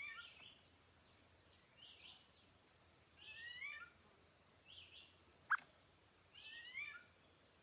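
Wild birds calling: short phrases of quick sliding notes repeating every second or two, with one sharp click about five and a half seconds in that is the loudest sound.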